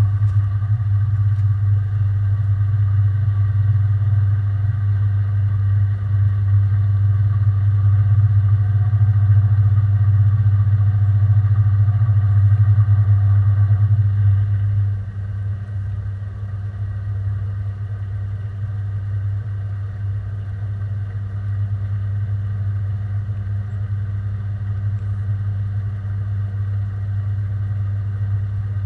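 Washing machine running, heard from inside the drum: a steady, loud motor hum that becomes somewhat quieter about halfway through.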